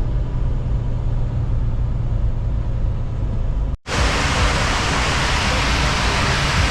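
Low, steady engine and road rumble inside a semi-truck cab; after a sudden cut a little past halfway, a loud steady hiss of heavy rain pouring down on the truck.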